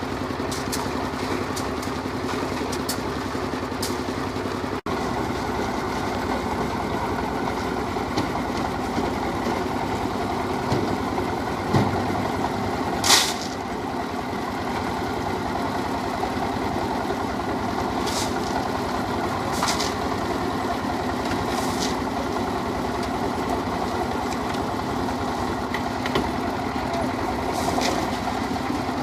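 Engine of concrete-placing machinery running steadily, with scattered light knocks and a short, sharp burst of noise about halfway through.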